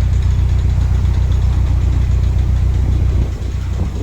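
Narrowboat diesel engine ticking over, a steady low rhythmic chugging.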